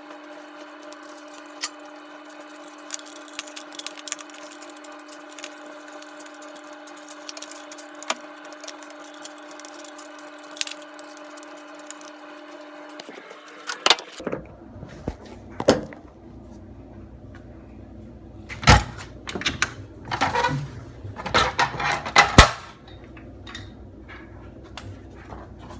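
Steady hum with scattered light clicks. About thirteen seconds in, this cuts to a lower rumbling background with a series of sharp knocks and clattering, loudest near the end: typical of hand tools and parts being handled.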